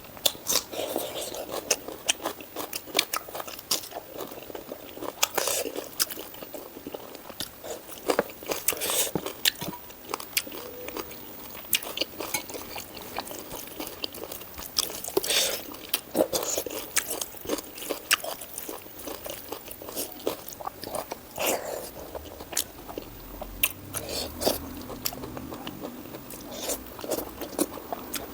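Close-miked eating of pork, mustard greens and rice: steady wet chewing, mouth clicks and lip smacks, with crunchy bites now and then.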